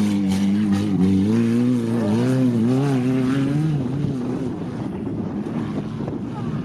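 Banger racing cars' engines running on the oval, their pitch rising and falling as they accelerate and lift off, then fading about two-thirds of the way through.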